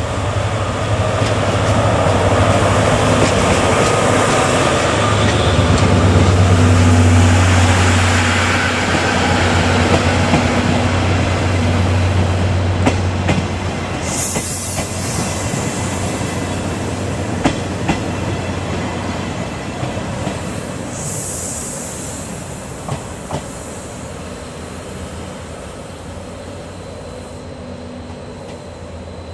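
DE10 diesel-hydraulic locomotive hauling three passenger coaches past: a low engine drone that builds to its loudest about seven seconds in, then wheels clicking over rail joints as the coaches go by, the sound fading away toward the end.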